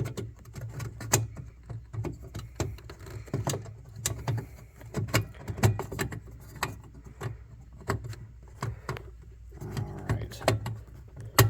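Irregular plastic clicks, taps and scrapes as a headlight bulb cartridge is worked by hand into its housing, over a steady low hum.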